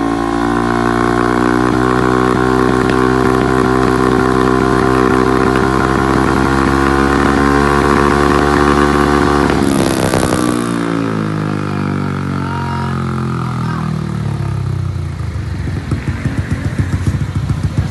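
Bored-up Yamaha Aerox 155 single-cylinder scooter engine breathing through a WRX GP3 aftermarket exhaust, held at steady high revs for about ten seconds. Then a short burst of noise as the throttle is let off, and the revs fall over about four seconds into an even, pulsing idle.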